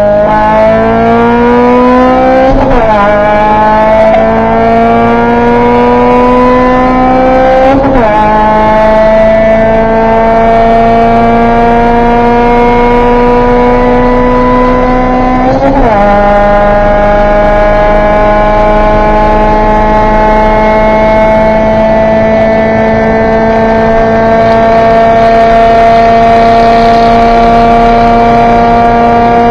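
Car engine accelerating hard at full throttle, heard from inside the cabin. Its pitch climbs and drops sharply at each of three upshifts, then rises slowly and steadily in the top gear.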